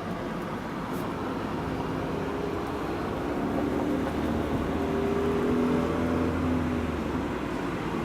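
A motor vehicle's engine passing by, growing louder to a peak about six seconds in and then fading, over a steady rush of blizzard wind.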